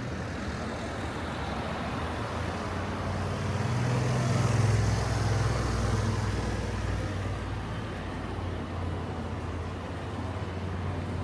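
Street traffic: a motor vehicle's engine drone swells as it passes, loudest about four to five seconds in and easing off by about seven seconds, over a steady low traffic rumble.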